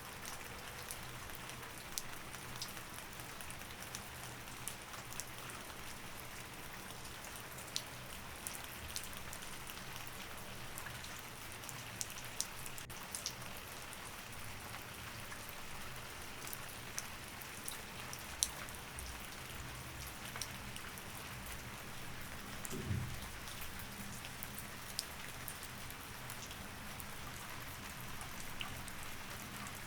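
Steady rain falling, with scattered sharp drops tapping close by over a faint low hum. A brief low thud comes about three-quarters of the way through.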